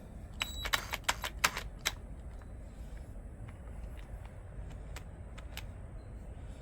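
Drill chuck clicking and rattling in a quick run of about ten sharp clicks in the first two seconds, with a few faint ticks after, as it is worked in reverse to free a bit; the chuck is stuck tight and won't release.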